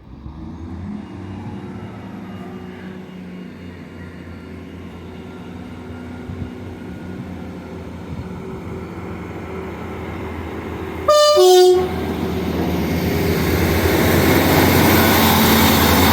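Passenger train approaching the station, its running noise growing steadily louder. About 11 seconds in it sounds a loud two-tone horn, a high note then a low note, lasting under a second.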